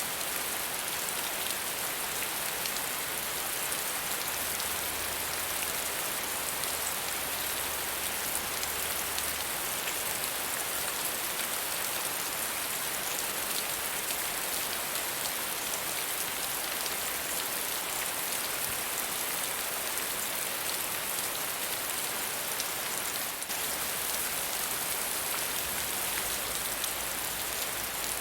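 Soft, steady rain falling, an even hiss of many small drops with no thunder or other events.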